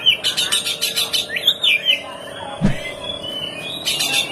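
Small songbird calling: bursts of high chirps and fast rattling trills, with a faint steady tone underneath in the middle and a short dull thump a little past halfway.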